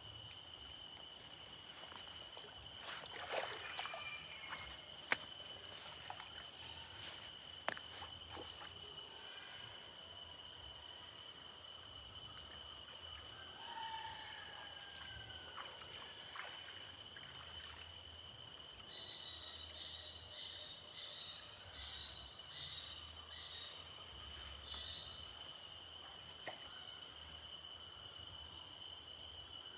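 Outdoor ambience filled with insects: several steady high-pitched insect trills run throughout, with a faint chirp repeating about every second and a half. From about two-thirds of the way through, a pulsing insect call joins for several seconds. A few brief bird-like calls and scattered clicks sit over a low background hiss.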